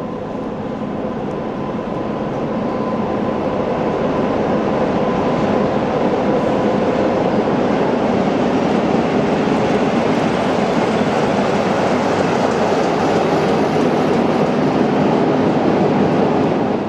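Locomotive moving on station tracks during shunting, a dense rumble that grows louder over the first few seconds and holds, with a faint steady tone in it; it cuts off suddenly near the end.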